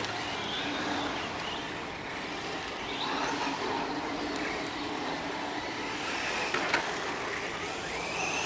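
Electric RC cars on 3S LiPo running on a dirt track: motor whine gliding up and down in pitch with the throttle, over a steady hiss, with one sharp tick about two-thirds through.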